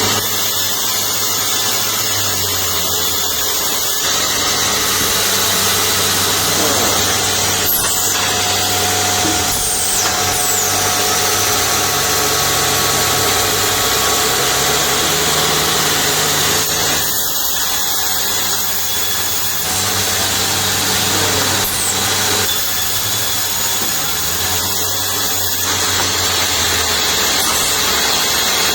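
Woodworking machinery running steadily: a loud hiss with a low hum underneath that changes pitch abruptly every few seconds.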